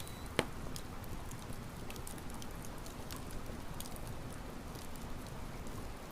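Campfire crackling: a steady hiss with scattered sharp pops and snaps, the loudest about half a second in.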